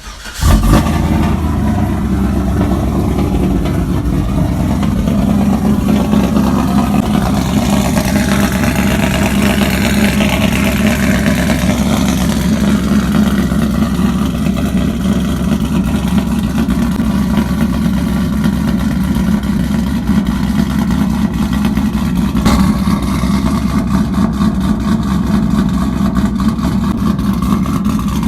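Cold start of a cammed Chevrolet 5.3 V8 on long-tube headers and true dual straight pipes: it catches with a loud flare about half a second in, then settles into a loud, steady idle. One brief louder burst comes about 22 seconds in.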